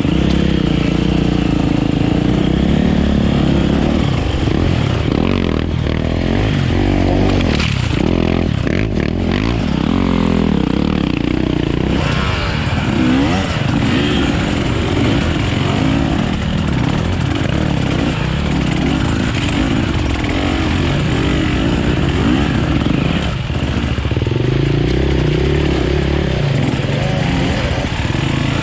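Enduro dirt bike engine running under way, its revs rising and falling continuously as it is ridden.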